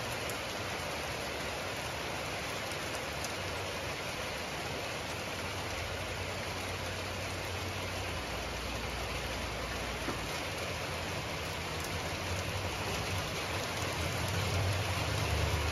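Rain falling steadily as a storm moves in, with a low rumble underneath that grows louder near the end.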